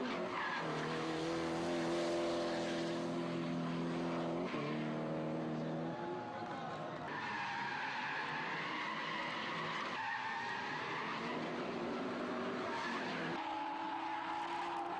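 Car engine running hard at high revs, its pitch jumping suddenly several times as gears change, with tyres squealing and skidding.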